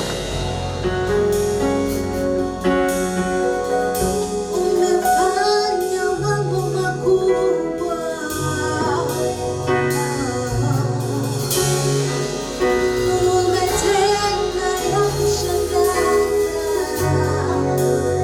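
Gospel worship music: a band plays sustained bass and chords over a steady beat, and singing voices join in about five seconds in.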